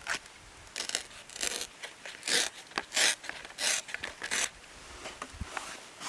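Footsteps crunching on loose ground: about seven steps in an even walking rhythm, stopping about four and a half seconds in.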